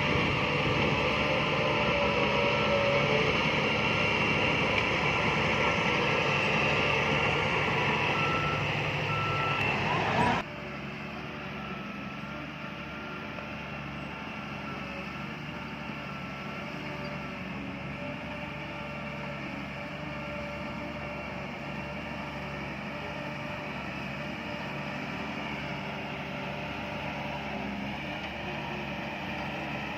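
Diesel engines of heavy earthmoving machinery running steadily, with a reversing alarm beeping. About ten seconds in the sound drops abruptly to a quieter engine drone.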